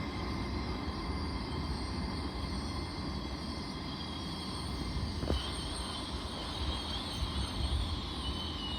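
Train at a station platform: a steady low rumble, with a thin high squeal that comes in about five seconds in, just after a single click, and holds.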